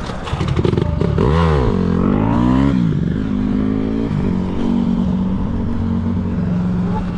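Dirt bike riding, its pitch rising and falling twice in the first few seconds, then holding steady, with a brief rattle at the start.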